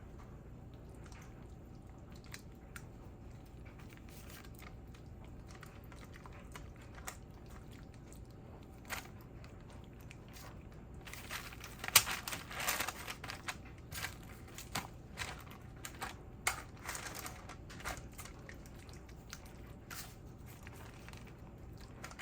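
Hands smearing and rubbing seasoning over raw chicken breasts: faint wet squishes and soft clicks, busiest about halfway through, over a steady low hum.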